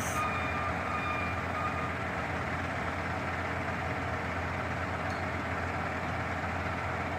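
Shingle delivery truck's engine running steadily, with a beeping alarm over it for about the first two seconds.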